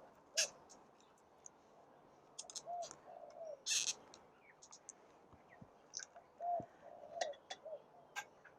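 A bird calling in short, soft, cooing notes a few seconds apart, with faint clicks and a brief rustle near the middle.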